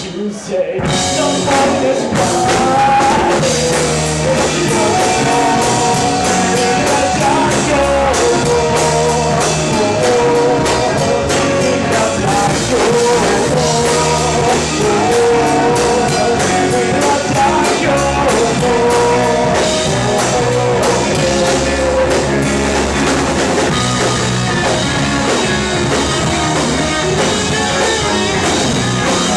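Live rock band playing loudly, with drum kit, bass and electric guitars. There is a brief break right at the start, after which the band plays on steadily.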